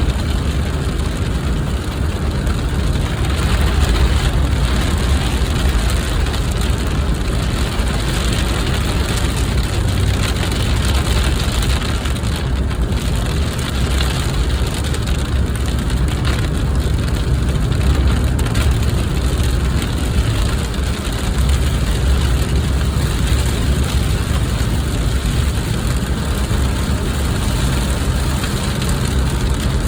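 A car's engine and road noise as a steady low rumble, under the even hiss of heavy rain beating on the car, with scattered faint ticks.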